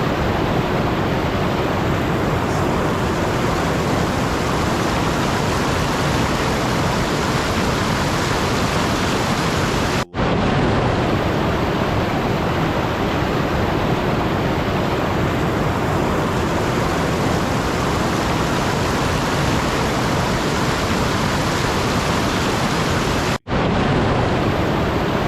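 Steady, even hiss-like noise, like static or rushing water, that cuts out for an instant twice: about ten seconds in and near the end.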